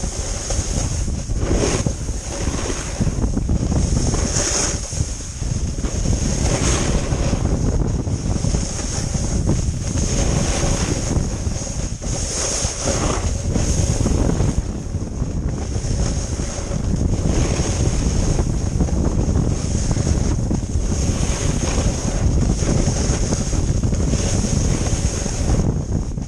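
Wind buffeting the microphone while riding down the slope, a heavy low rumble throughout, with a high hiss that swells and fades every second or two.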